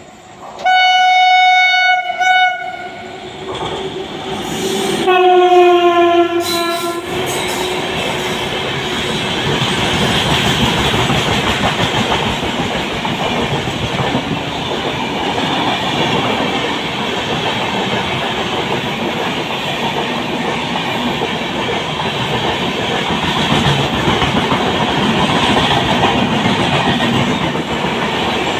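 WAP-7 electric locomotive sounding its horn in two blasts as it runs through without stopping, the second blast dropping in pitch as it passes close by. Then the express's coaches rush past at speed with a steady loud rumble of wheels on rail.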